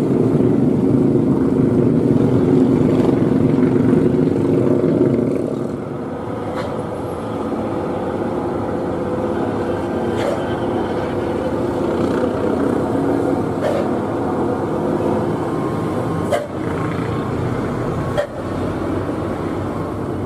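Old truck's engine running under load, louder for the first few seconds and then easing off a little about five seconds in. Two sharp knocks come near the end.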